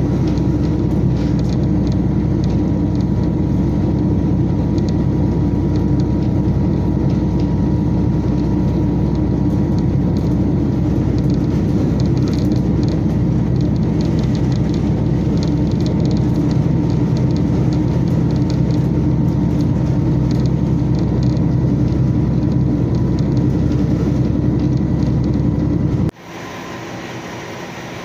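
Steady running noise heard inside a diesel local train's cabin as it travels: a constant engine and rail rumble. It cuts off suddenly near the end, giving way to a quieter hum.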